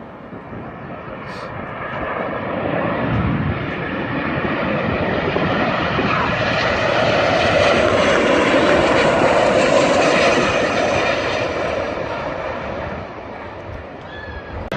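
Engines of an airliner coming in to land low overhead, building to a peak about eight to ten seconds in and then fading away.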